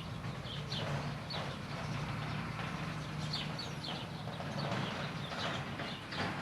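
Small birds chirping, many short falling notes repeated, over a steady low hum and a soft outdoor hiss.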